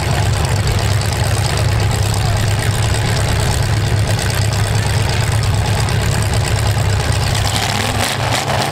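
Several demolition-derby cars' V8 engines idling together in a steady low rumble while the cars sit stopped.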